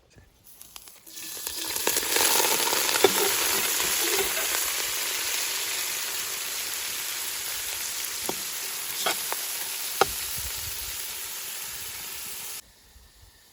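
Food frying in hot oil, a loud steady sizzle that swells in over the first couple of seconds. A few sharp clicks of stirring come through it, and it cuts off suddenly near the end.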